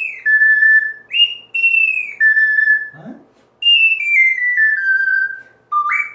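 Soprano C ocarina playing high in its range with a clear, whistle-like tone. Twice it slurs down from a high E to an A, then plays a stepwise falling run, and near the end makes three quick upward leaps.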